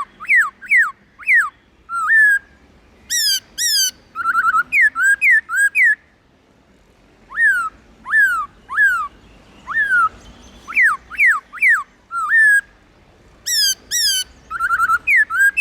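Black-throated laughingthrush singing: loud, clear whistled notes, most sliding down in pitch, repeated in quick runs broken by short pauses.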